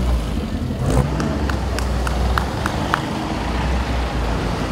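Vintage open racing cars' engines running low and steady as the cars drive slowly past. A string of short sharp clicks comes about a second in.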